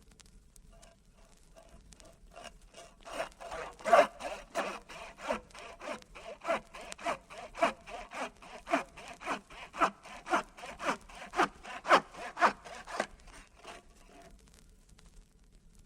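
Hand saw cutting back and forth in quick, even strokes, about two to three a second, for roughly twelve seconds: a staged effect of a leg being sawn off.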